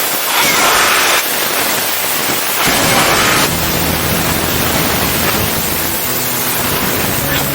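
Steady workshop machinery noise with two louder bursts of hiss, each about a second long, then a low steady hum that starts about a third of the way in.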